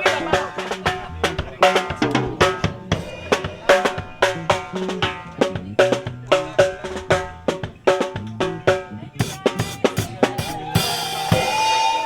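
Band music led by a drum kit, with fast, regular drum and snare strikes under pitched instruments. Near the end a cymbal crash and a held note close the song.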